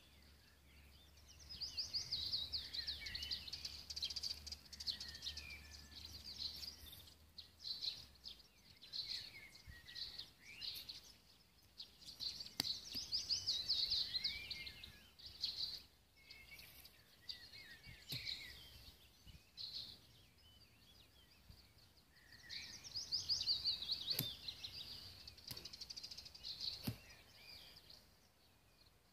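Wild birds singing: several bouts of fast, trilling song a few seconds long, with shorter phrases between them.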